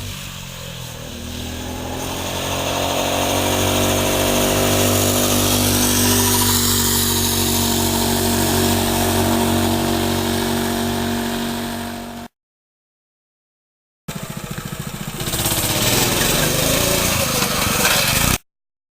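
Fox wheelie minibike's small engine running, its pitch rising over the first few seconds and then held steady at high revs. The sound cuts off abruptly about twelve seconds in, and after two seconds of silence the engine is heard again until it cuts off just before the end.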